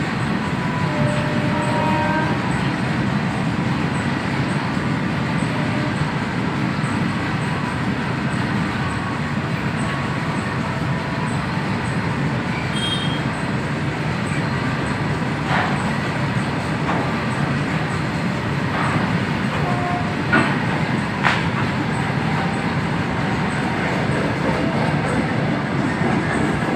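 Freight train rolling past: a steady rumble of wheels on the rails, with a few sharp clicks from the wheels crossing rail joints in the second half.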